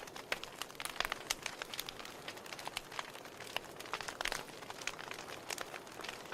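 Wood fire crackling in a fireplace: irregular sharp pops and snaps, several a second, over a soft steady hiss of flame.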